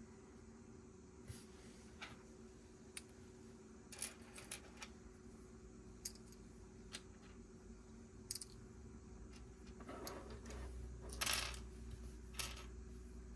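Plastic Lego pieces being handled: scattered small clicks and taps, then a longer rattling rustle of pieces about ten seconds in, followed by one more click. A faint steady hum sits underneath.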